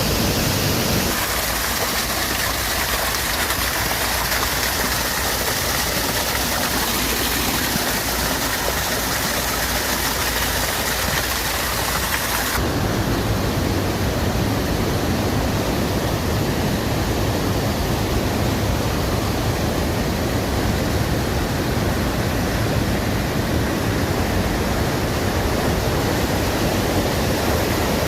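Steady rushing of water from a stream or waterfall. Partway through it changes abruptly to a fuller, lower rush with less hiss.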